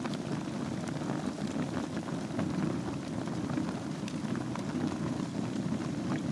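Wood fire burning in a fireplace: a steady low rush of flames with many small, sharp crackles and pops scattered through it.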